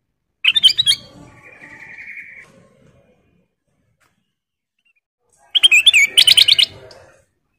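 Kutilang emas, a caged bulbul, giving two short bursts of rapid, clear chirping notes about five seconds apart. A softer trailing note follows the first burst.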